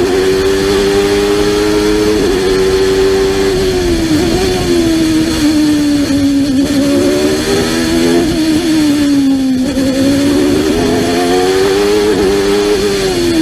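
Ford Cosworth HB 3.5-litre V8 of a 1993 McLaren MP4/8 Formula One car, heard onboard at racing speed. The engine note climbs and drops several times, with a sudden step down about two seconds in, as the car accelerates and slows for corners.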